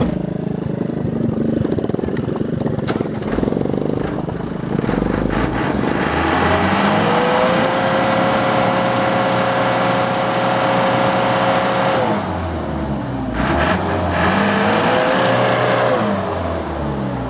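Heavy truck's diesel engine revving hard twice under load, as the truck strains to get out of the mud. The engine runs low at first, rises and holds at high revs for about five seconds before dropping away, then rises and falls again in a shorter second surge near the end.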